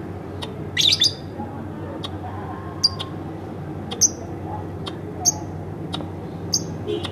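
Pet lovebird chirping: a quick cluster of high, sharp chirps about a second in, then single short chirps every second or so.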